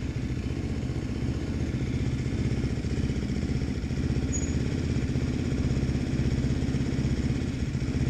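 Motorcycle engine idling steadily close by, a fast, even low pulse.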